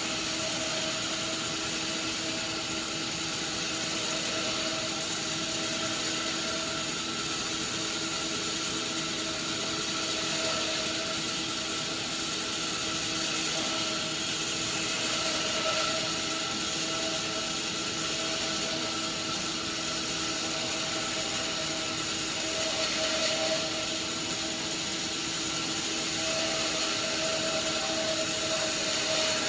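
Sawmill machinery running with a steady, unbroken hum and no pauses or impacts.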